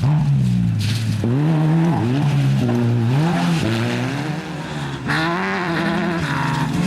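Off-road desert race vehicle's engine revving up and down over and over as the throttle is worked, with a short rushing hiss about five seconds in.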